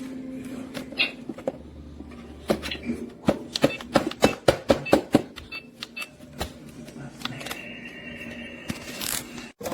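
Plastic toy microwave being handled: a quick run of sharp plastic clicks, about five a second, over a steady low hum, then a steady high tone for about two seconds near the end.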